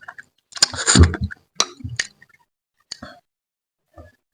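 Close-miked eating sounds from a mukbang of spicy mangut catfish head: a loud mouth sound about a second in, then scattered small clinks and clicks of eating at a plate.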